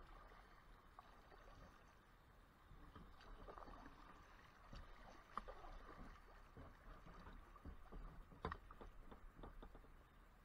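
Faint kayak paddling: the paddle dipping and water splashing and dripping, with a few light knocks, the sharpest about five and eight and a half seconds in.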